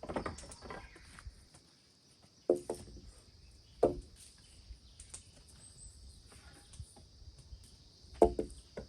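Wooden poles knocking against each other several times as they are laid, each knock with a short hollow ring, over a steady high-pitched insect drone.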